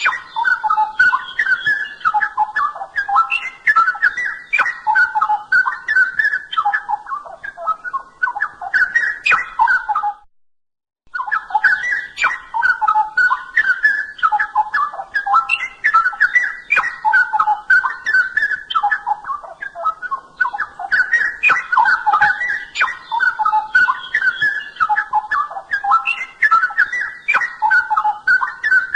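Straw-headed bulbul (cucak rowo) singing on and on in loud, rich, warbling phrases. The song breaks off completely for about a second roughly ten seconds in, then resumes.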